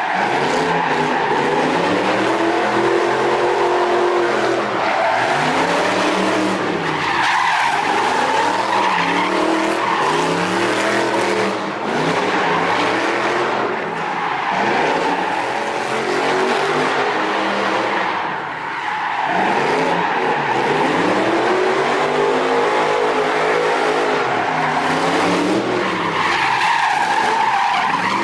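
V8-swapped BMW E46 drift car with a straight-pipe exhaust, its engine revving up and down in repeated sweeps every few seconds as it slides, over the continuous squeal of tyres skidding.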